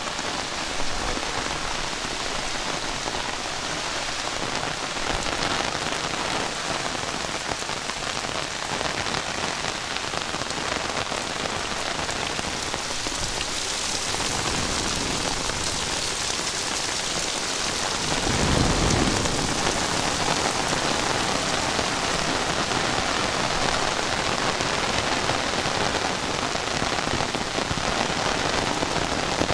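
Heavy rain falling steadily, a dense hiss of drops. A brief low rumble comes about two-thirds of the way through.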